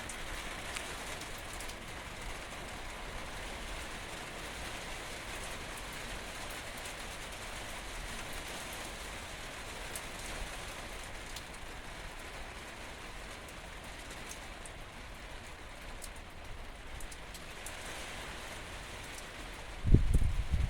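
Steady rain falling, an even hiss with scattered faint drop ticks. About a second before the end, a sudden loud low rumble cuts in over it.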